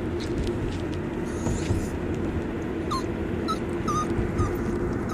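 Yorkshire terrier whimpering in four short, high whines in the second half, demanding to be held, over the steady drone of a car cabin on the road.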